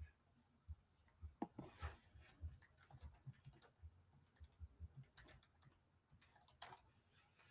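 Near silence with faint, irregular clicking and tapping.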